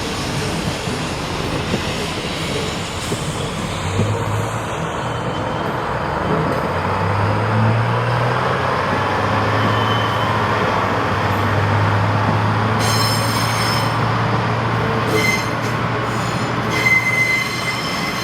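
A train moving on the tracks, with a steady low drone from about four seconds in. The wheels squeal high against the rails in the last few seconds.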